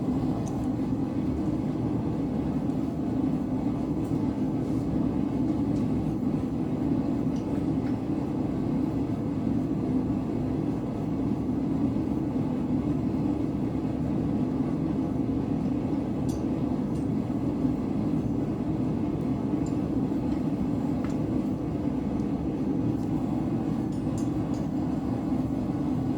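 Blacksmith's forge running with a steady, unchanging roar, the sound the smith calls "the loud noise" of the forge.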